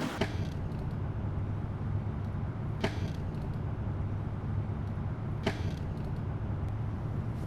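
A steady low hum with two sharp clicks, about two and a half seconds apart.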